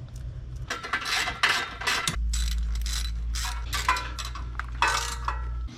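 Hand ratchet wrench cranked in quick, rasping strokes, about two a second, tightening bolts on a freshly fitted gasket. A low steady hum sits underneath from about two seconds in.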